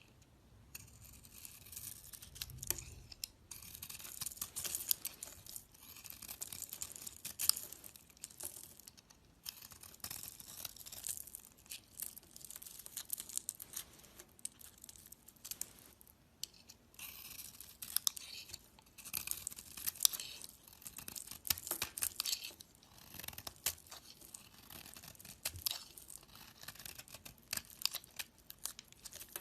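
A knife blade cutting and scraping through soap, a dry, crackly scratching with many sharp little clicks as shavings break off. It comes in runs of strokes with brief pauses between them.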